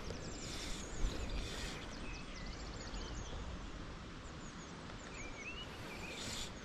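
Small songbirds singing and calling, with rapid runs of short high chirps and a few trills, over a steady outdoor background hiss.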